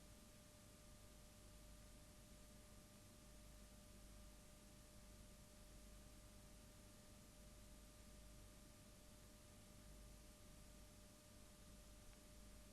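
Near silence: a faint steady hiss with a thin, steady high hum.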